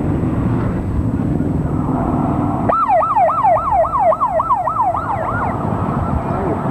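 Police siren in a fast yelp, its pitch sweeping up and down about three times a second for close to three seconds, starting about three seconds in. A steady low rumble of traffic and crowd lies underneath.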